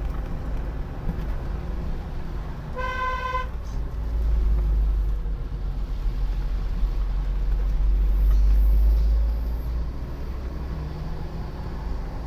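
A car horn gives one short, steady toot about three seconds in, over the steady low rumble of a car driving on the road.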